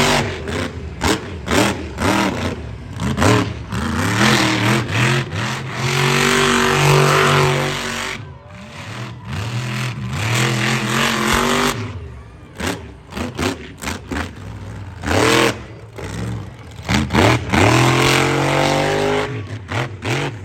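Monster truck's big V8 engine revving hard, climbing and dropping again and again, with many sharp bangs in between.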